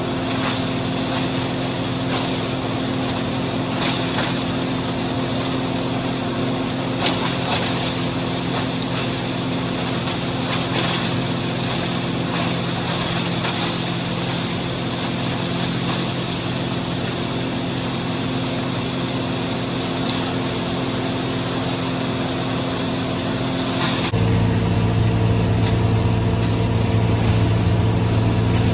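John Deere 4230 tractor's diesel engine running steadily under load, driving a New Holland 355 hammermill feed grinder-mixer. Near the end the sound turns abruptly louder and deeper.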